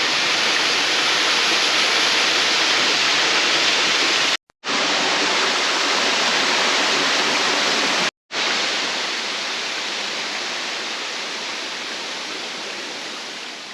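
Waterfall: a steady rush of falling water, broken by two brief silences and fading out gradually over the last few seconds.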